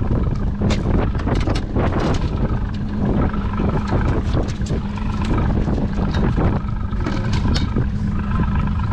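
A boat's motor running with a steady hum, under heavy wind buffeting the microphone, with many irregular sharp knocks and splashes throughout.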